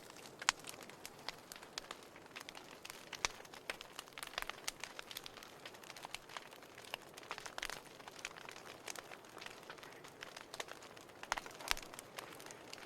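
Wood fire crackling: irregular sharp pops and snaps from burning firewood over a soft steady hiss, with a few louder pops about half a second in and near the end.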